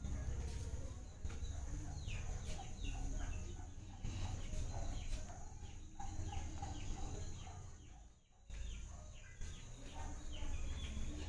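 Birds chirping: a rapid string of short, high chirps, each falling in pitch, over a steady high whine and a low rumble. The sound dips out briefly about eight seconds in.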